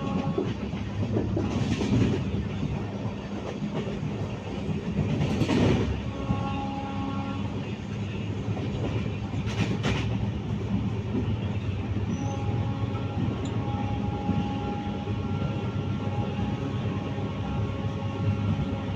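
A moving train running on its rails, with steady rumble and wheel clatter and a few louder rushes of noise in the first half.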